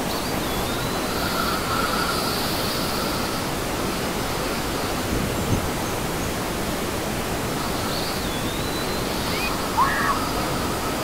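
Rere Falls, a wide curtain waterfall, pouring steadily into its pool: a dense, even rush of falling and splashing water.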